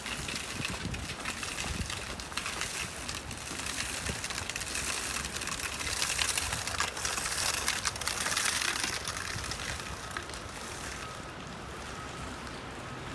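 Hissing outdoor noise on a snow-covered city street, swelling for a few seconds in the middle and then easing.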